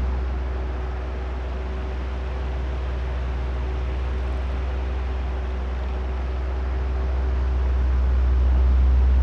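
Oscillating electric fan running: a steady rush of air with a deep low rumble and a faint steady hum. The sound dips a little about a second in and swells louder near the end as the fan head turns back and forth.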